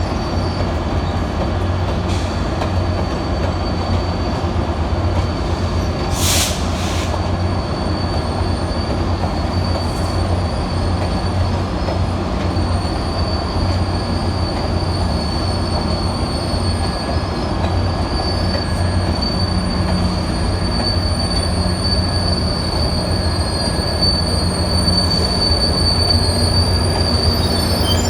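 Passenger train moving slowly through the station, its wheels giving a steady high squeal over a continuous rolling rumble and low hum. There is one short sharp clank about six seconds in.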